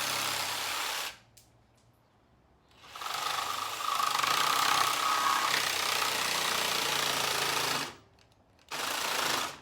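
Cordless jigsaw sawing through a scrap 2x4 in three runs: one that stops about a second in, a long cut of about five seconds, and a short burst near the end.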